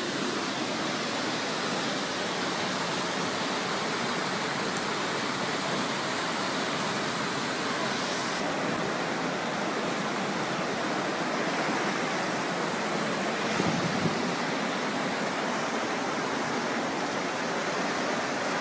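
Floodwater rushing steadily in a continuous wash of noise, with a brief low knock about three quarters of the way through.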